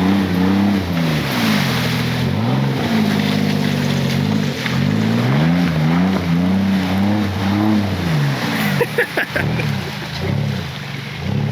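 Mud truck's engine revving up and down over and over, rising and falling in pitch, with a steady rush of mud and water thrown by spinning tires.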